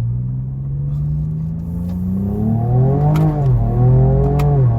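Ford Ranger Raptor's twin-turbo V6 accelerating hard, its pitch climbing steadily, then rising and dropping twice through gear changes, with a sharp crack from the exhaust at each change.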